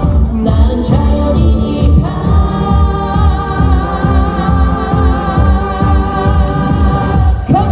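Live trot song: a male singer with a band over a steady drum beat, and from about two seconds in a single long note held with vibrato until near the end.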